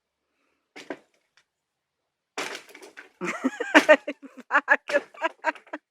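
People's voices making unclear, wordless sounds, ending in a quick run of short, evenly spaced voiced bursts.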